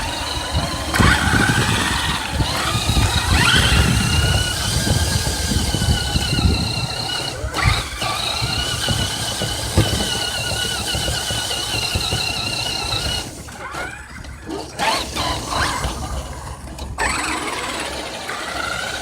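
RC car motor whining, its pitch wavering up and down with the throttle, over low rumble. It drops away and comes back in short spurts a little past the middle.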